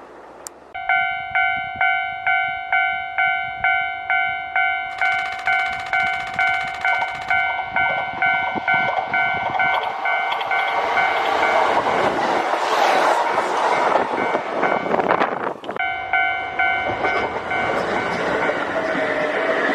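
Level-crossing warning bells start ringing about a second in, a steady repeating electronic clang about twice a second. A Kintetsu Osaka Line train then rushes through the crossing, its noise swelling over the bells and loudest in the middle seconds, before the bells come through again near the end.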